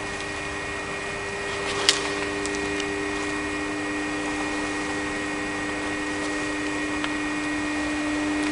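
Cazeneuve metalworking lathe running with a steady hum and a few steady whining tones, with one sharp click about two seconds in.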